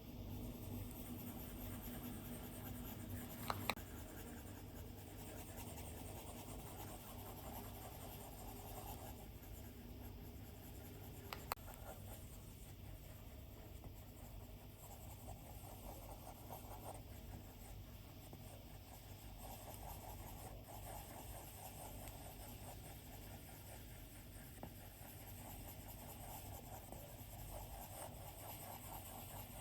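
Faint scratching of a stylus drawing strokes on an iPad's glass screen, in soft uneven patches. Two sharp clicks of the stylus tip tapping the glass stand out, one a few seconds in and one about a third of the way through.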